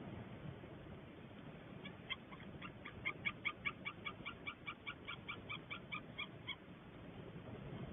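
White-tailed eagle calling: a run of short yelping notes, about five a second, that starts about two seconds in and lasts about four seconds, over a steady low hiss.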